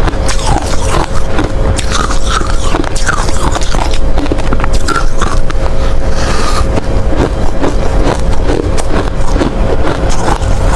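Hard ice being bitten and crunched in the mouth close to the microphone, a dense, irregular run of crunches that never lets up.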